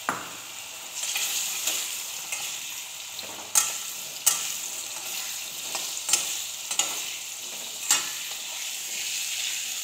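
Cubes of raw elephant yam sizzling steadily as they fry in hot mustard oil in a kadhai, with a wooden spatula scraping and knocking against the pan now and then as they are stirred.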